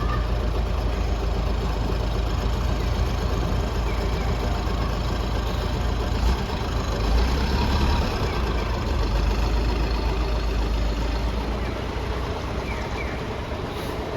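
Bus engine idling steadily after being started, a continuous low rumble. The low rumble rises briefly about six to eight seconds in.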